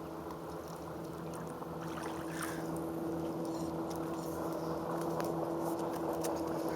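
An engine running steadily, with a steady low hum that grows slowly louder.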